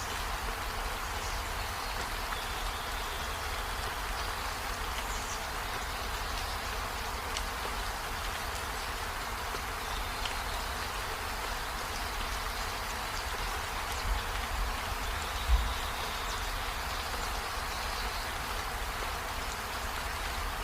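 Steady rain falling on trees and a window, with a faint high buzz over it. Two low thumps come about two-thirds of the way through.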